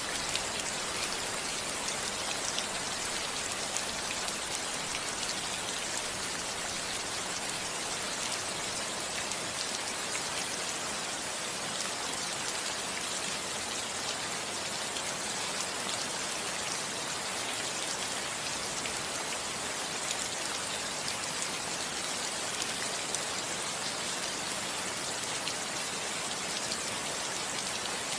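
Steady rain falling on a roof, an even patter of many small drop hits.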